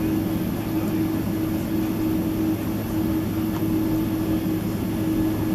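Steady cabin noise inside a Boeing 767-300ER, an even rush of engine and airflow noise with a constant low hum.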